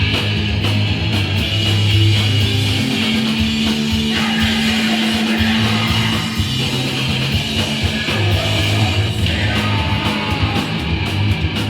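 Hardcore punk band playing live: distorted electric guitar, bass and drums, with sustained low bass notes under regular drum and cymbal hits.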